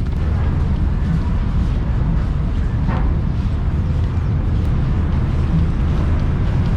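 Steady low rumble of vehicle and ferry engines at a ferry crossing, with a single faint knock about three seconds in.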